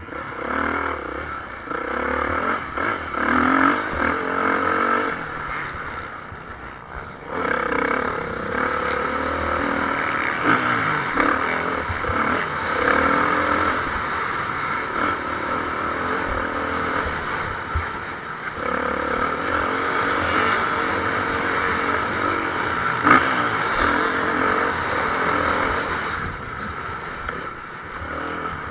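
Motocross bikes racing, engines revving up and down as riders open and close the throttle. The engine noise dips briefly about a quarter of the way in and fades near the end.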